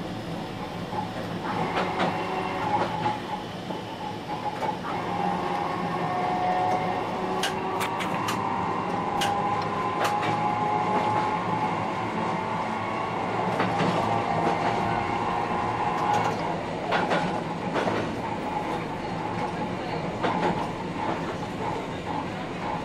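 Dubbed sound of an electric train running: a steady hum with a whine that drifts slightly in pitch, and sharp clicks of the wheels over rail joints scattered through it.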